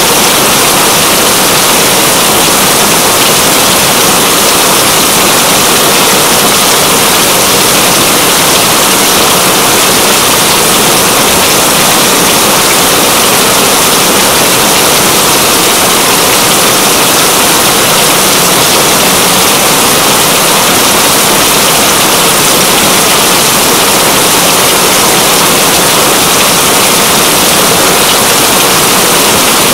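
Steady rain falling, an even dense hiss that does not let up.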